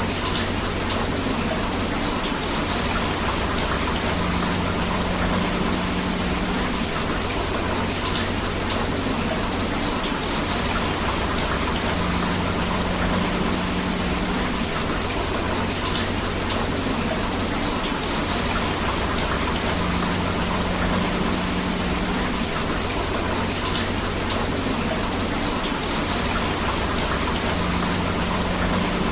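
Steady rain mixed with rushing river water, a continuous even wash of noise. The same pattern comes back about every eight seconds, as in a short looped recording.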